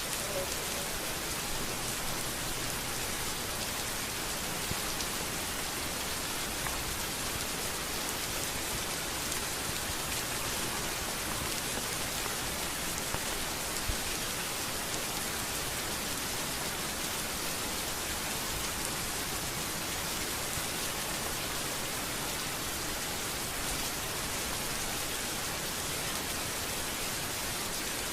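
Steady rain falling on a street, a dense even hiss of drops.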